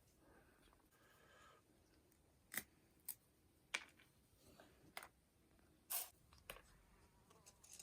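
About six separate sharp clicks or snaps, roughly a second apart, over a quiet background.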